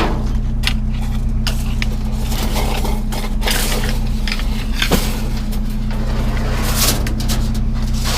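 Hard objects being rummaged through and handled: scattered clinks and knocks of metal and glassy items. A steady low engine hum runs underneath.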